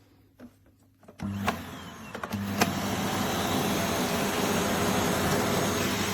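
Hoover H-ENERGY 300 bagged cylinder vacuum cleaner switched on about a second in, coming up to speed and then running steadily: a rush of air with a low motor hum under it.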